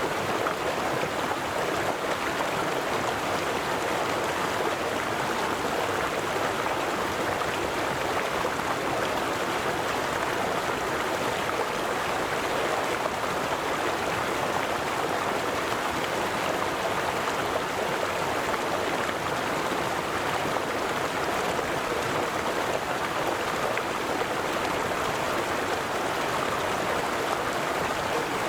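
River water flowing and splashing, a steady rushing without breaks.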